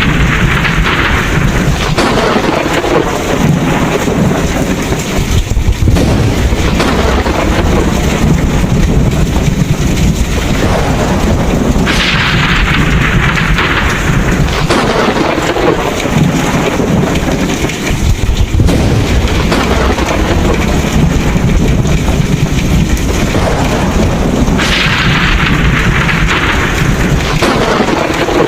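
Thunderstorm: heavy rain with low rolling thunder that never lets up. About every twelve seconds the rain's hiss swells brighter for a couple of seconds.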